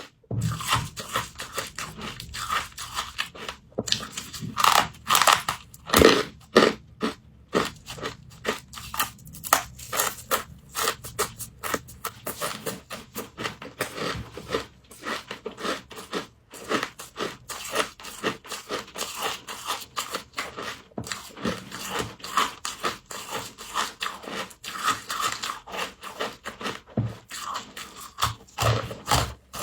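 A person biting and chewing crunchy frost: dense, rapid, irregular crunching and crackling, one bite after another.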